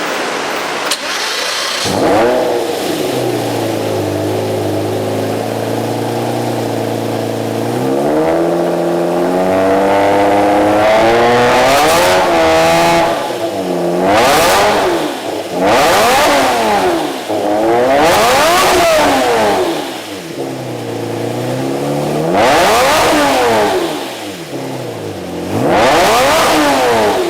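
Lamborghini Murcielago LP670-4 SuperVeloce's V12 through a Larini sport exhaust, starting up about two seconds in and settling into a steady idle. The idle steps up about eight seconds in, and the engine is then blipped several times, each rev rising and falling quickly.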